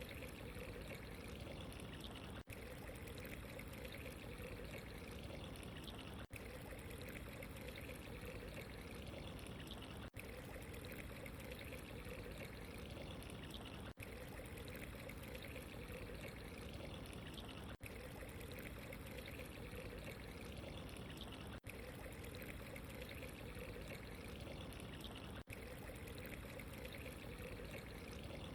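Steady pouring, trickling water with no change in strength, broken by a very short gap about every four seconds where the short recording loops.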